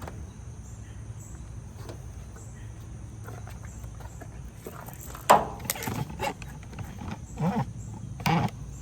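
Over a steady low hum, an unlubricated metal hinge or pivot creaks and squeals several times, starting about five seconds in, as it is moved. It is dry and wants grease and oil.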